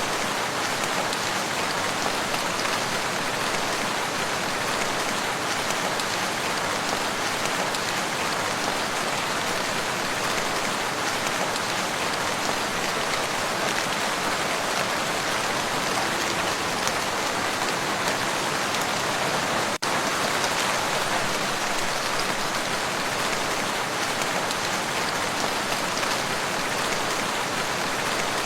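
Steady rain falling on a lake, an even dense hiss of countless drops, with a momentary drop-out about twenty seconds in.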